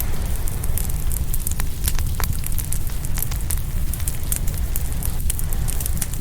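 Open wood fire crackling, with frequent sharp pops and snaps, over a steady low rumble of ocean waves on the shore.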